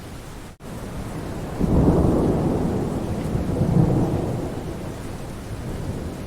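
Steady rain with a roll of thunder that comes in about a second and a half in, swells twice and fades away. The sound drops out for an instant just after the start.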